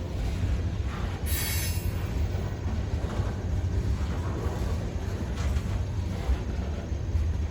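Freight cars of a mixed freight train rolling past with a steady low rumble, and a short high metallic wheel squeal about a second in.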